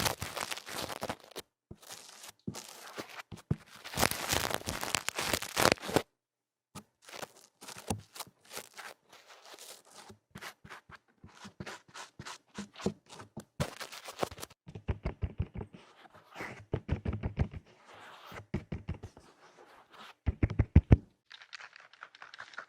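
ASMR ear-cleaning sounds: rough, loud scratching and rubbing on an ear-shaped microphone, dense for the first six seconds, then sparser scratches and taps, with runs of quick low thumps later on.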